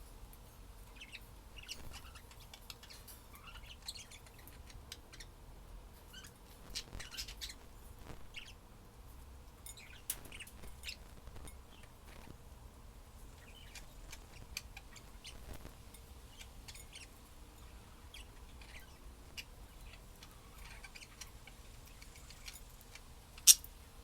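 Pet budgerigars chirping and chattering in short, scattered chirps, with one sharp click near the end.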